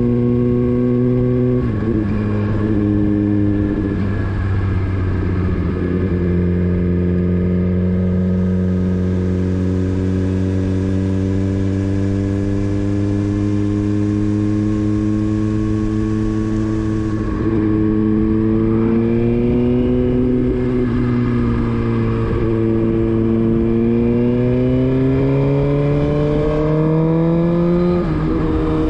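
Motorcycle engine under way: it drops in pitch once early on, holds a steady cruise, then climbs in pitch with brief dips as it changes gear, with wind noise throughout.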